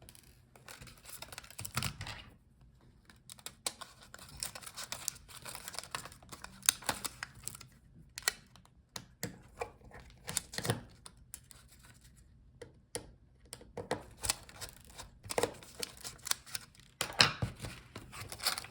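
Small screws being removed and a laptop touchpad being worked loose from its palmrest: scattered light clicks, ticks and plastic-and-metal knocks, with a louder cluster near the end.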